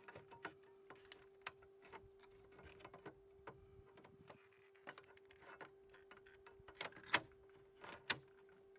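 Irregular light clicks and small knocks from hands and tools working on the stable door, loudest twice near the end, over a faint steady hum.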